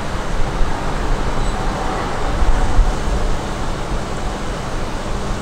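Shinkansen train creeping slowly through the depot train wash: a steady rumbling hiss with no distinct strokes or tones.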